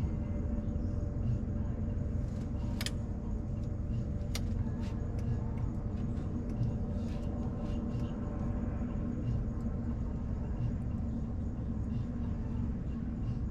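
Wood bonfire crackling, with scattered sharp pops, two louder ones about three and four and a half seconds in, over a steady low rumble.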